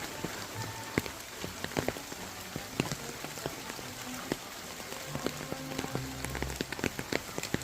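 Rain falling steadily, with many separate drops tapping sharply and irregularly on nearby surfaces over an even hiss.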